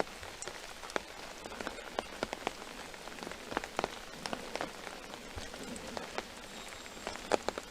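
Steady rain with irregular sharp taps of heavy drops striking close by, as on an open umbrella overhead.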